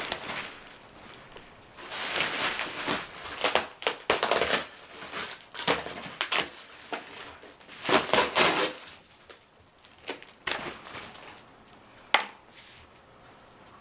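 Cardboard box and packing material being handled and pulled at during an unboxing: irregular bursts of rustling, crinkling and scraping, with a sharp click near the end.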